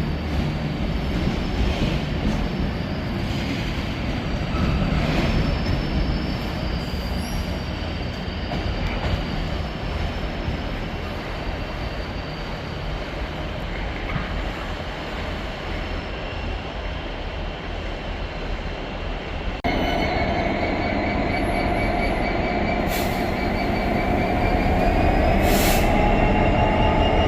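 Freight train rolling past on the track, a steady rumble of wagon wheels. About twenty seconds in, the sound changes abruptly to a louder, steady whine with a couple of high tones that rise slightly in pitch.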